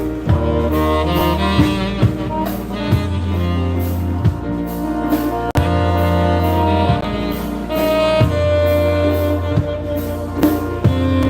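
Live polka band playing an instrumental stretch of an old Polish waltz, a saxophone and brass lead over drums and a steady bass pulse.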